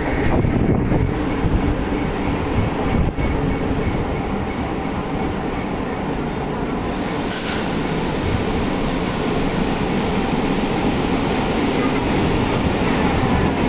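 Electric multiple-unit suburban train heard from on board: a continuous rumble and rail noise, which grows brighter and hissier about halfway through.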